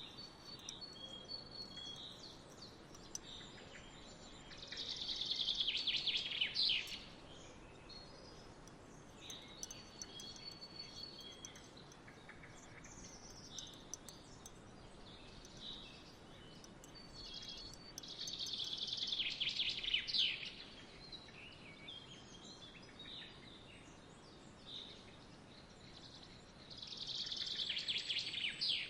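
Songbirds singing. One bird repeats a loud song of about two to three seconds three times, each time ending in a quick falling run of notes, with shorter chirps and whistled notes from other birds between, over a steady soft hiss.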